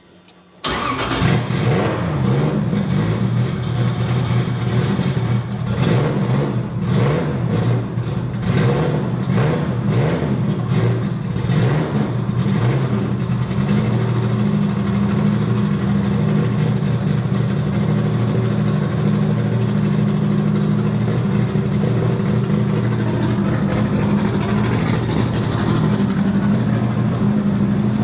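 Nissan Silvia S14 drift car's engine starting up about half a second in, then revved in a series of short blips for roughly the next twelve seconds before settling to a steady, low idle.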